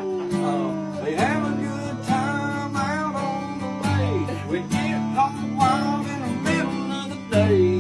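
Acoustic guitar strummed in a country style, with a voice singing along.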